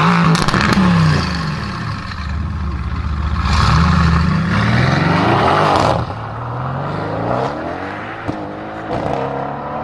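Mercedes-AMG GT S twin-turbo V8 through an ASG exhaust, revving hard several times, its pitch climbing and falling, louder in the first few seconds and again near the middle.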